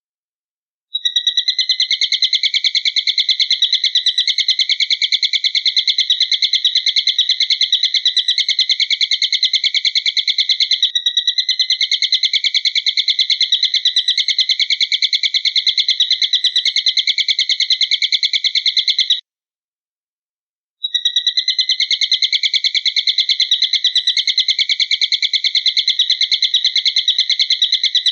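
A loud, high-pitched animal trill, pulsing very rapidly and held without pause for long stretches. It cuts off abruptly about two-thirds of the way through and starts again after a second and a half of silence.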